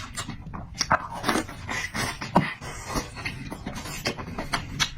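A person chewing food with open-mouthed smacking, irregular wet clicks and smacks of the lips and tongue, several a second, close to the microphone.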